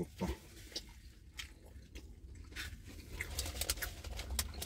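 A person chewing a mouthful of beef close to the microphone. The wet mouth clicks come thicker and faster in the second half.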